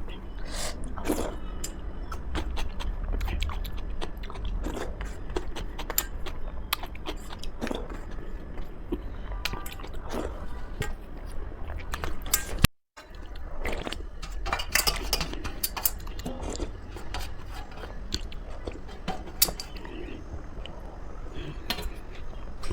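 Close-miked eating: a person chewing and biting a meal of khichdi and vegetable dishes, with many small wet mouth clicks and smacks. The sound cuts out for a moment about thirteen seconds in.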